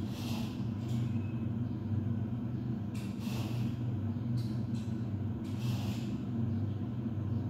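Steady low droning hum with brief hissing sizzles from a wok of frying minced chicken, the sizzles coming four times.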